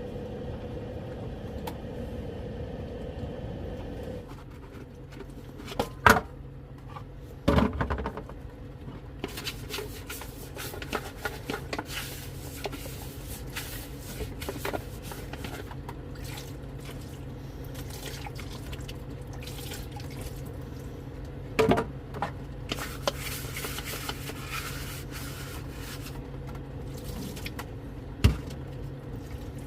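Water being handled in a small sink, splashing and dripping, with many small clicks and a few sharp knocks at irregular moments, over a steady low hum.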